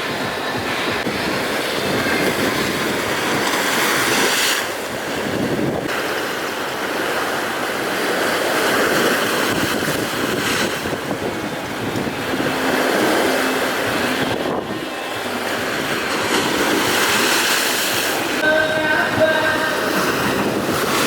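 Strong wind blowing on the microphone over rough, breaking sea waves: a loud, continuous rushing noise that swells and eases every few seconds.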